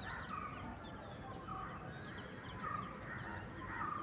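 Several birds chirping and calling at once, faint, with short calls scattered through and a few slightly louder ones.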